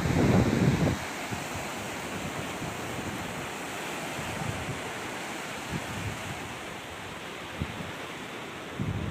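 Sea surf washing steadily on a rocky shore. Wind buffets the microphone with a loud low rumble in the first second.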